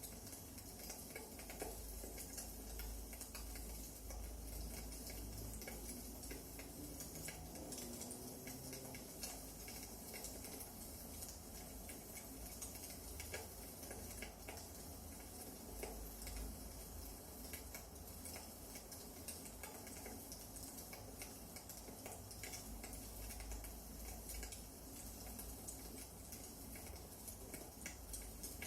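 Wood fire burning in a fireplace, crackling faintly with many small scattered pops and snaps.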